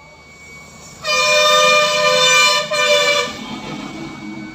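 Vehicle horn sounding about a second in and held for about two seconds, two notes together, with a brief break near its end.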